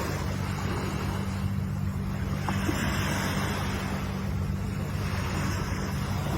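Ocean surf: a continuous rush of waves that swells up about halfway through and eases again, over a steady low rumble.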